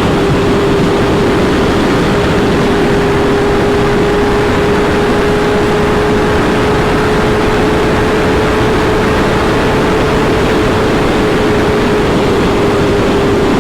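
Suzuki GSX-R inline-four sport bike cruising at steady highway speed: heavy wind rush over a constant engine tone that holds one pitch.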